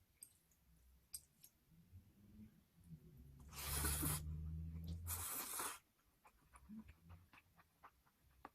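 Eating sounds: jjajang cup noodles slurped in two long noisy pulls near the middle, followed by soft chewing clicks.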